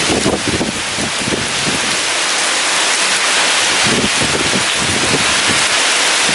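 Heavy rain with strong gusting wind: a dense, steady rain hiss over irregular low rumbles of wind.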